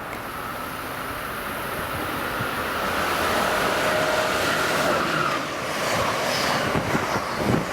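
Amtrak passenger train passing at speed: a rushing rumble of wheels on rail that builds over the first few seconds, with a faint steady whine riding on it.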